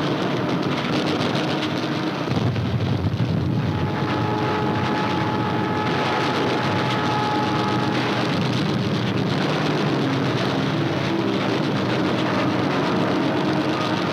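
Continuous din of anti-aircraft gunfire and aircraft engines on an old newsreel soundtrack: a dense crackle and rumble with a steady droning tone through the middle.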